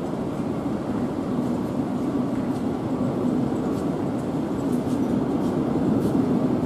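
Train moving slowly through the station tracks: a steady rumble and hum that grows a little louder toward the end, with faint scattered clicks.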